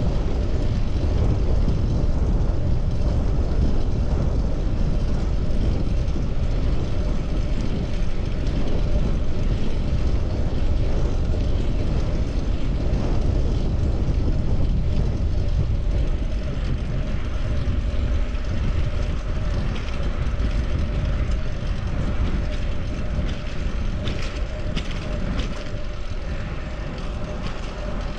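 Steady low rumble of wind and road noise from a moving bicycle ride, easing off slightly near the end.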